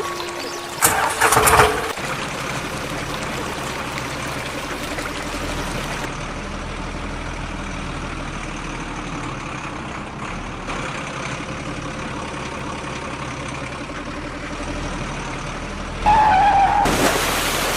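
Truck engine running steadily at a low hum, with a short loud burst about a second in and a louder stretch near the end.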